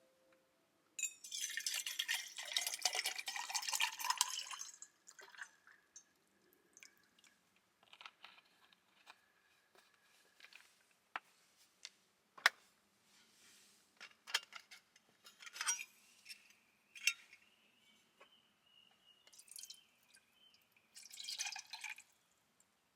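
Liquid pouring for a few seconds, then scattered light clinks and drips of camp cookware, with another short pour near the end.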